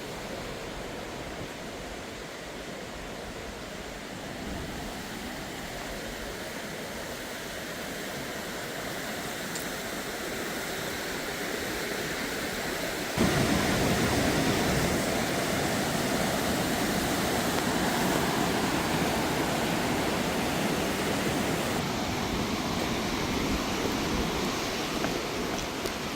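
Steady rush of flowing water, like a river or stream running over rocks. It gets suddenly louder about halfway through and stays that way.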